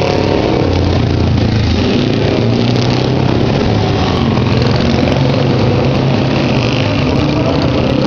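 Motorcycle engines running steadily at idle, a continuous low engine drone.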